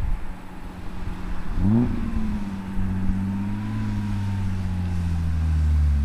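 A 1992 BMW 325is's 2.5-litre straight-six, heard through a Magnaflow exhaust while driving. The revs climb quickly just under two seconds in, then settle into a steady drone whose pitch drifts slowly.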